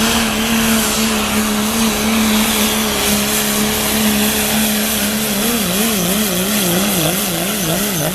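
Diesel 4x4 super truck engine at full throttle, pulling the sled. It holds a steady high pitch, then about five seconds in the pitch begins wavering up and down about twice a second.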